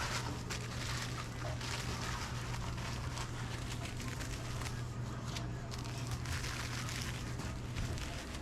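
Busy restaurant kitchen line: a steady low hum of kitchen machinery under a constant crackle and clatter, typical of meat sizzling on a grill with utensils knocking.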